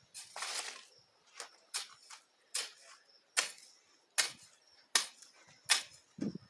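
A hand digging tool striking the soil again and again, about eight sharp strokes spaced roughly three-quarters of a second apart, working the ground for planting corn. A duller, lower thud comes near the end.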